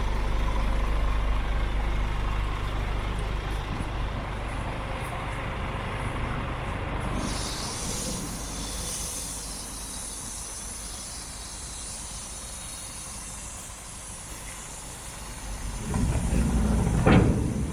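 Scania G410 tipper truck's diesel engine idling, with a steady air hiss joining about seven seconds in. Near the end it gets louder, with a short sharp burst.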